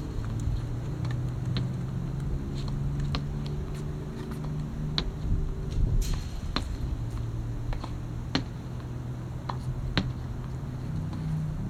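Badminton shuttlecocks being struck by rackets: sharp clicks at irregular intervals, about one a second, over a steady low hum.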